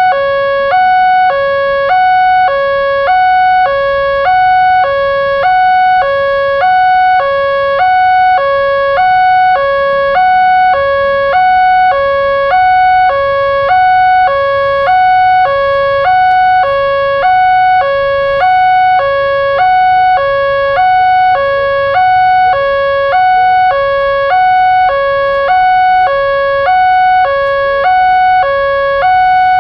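Indonesian railroad crossing warning alarm sounding continuously: an electronic two-tone signal alternating evenly between a higher and a lower pitch about once a second, warning that a train is approaching.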